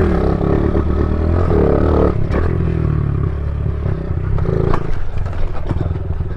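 Honda CRF50 pit bike's small single-cylinder engine revving with a shifting pitch, with a clattering impact about two seconds in as the bike comes down off a ramp jump. The engine then settles to a steadier run, with a few more knocks and scrapes.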